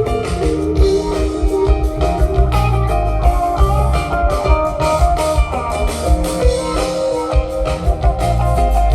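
A live rock band playing an instrumental jam: guitar lines over bass and a drum kit keeping a steady beat.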